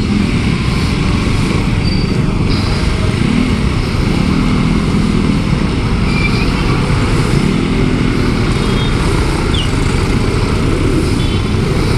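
Yamaha Sniper 150 single-cylinder engine running at low speed in stop-and-go traffic, its pitch rising and falling gently with the throttle, amid the steady sound of surrounding motorcycles and cars.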